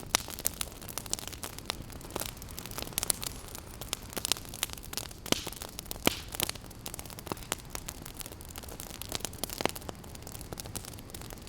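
Wood campfire crackling, with frequent irregular sharp pops and snaps over a steady low hiss.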